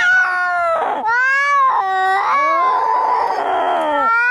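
Cats fighting: long, wavering yowls that rise and fall in pitch, one after another, with a hissing snarl in the middle.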